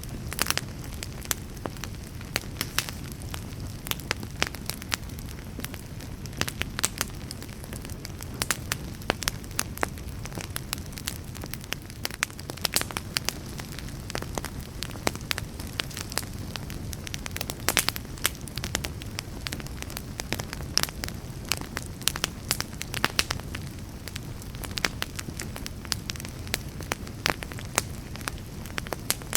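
Wood fire burning: a steady low rush under frequent, irregular sharp crackles and pops.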